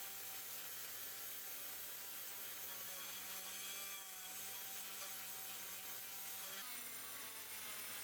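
Small electric power tool running steadily, with a hiss over its motor hum; its pitch steps up slightly about seven seconds in.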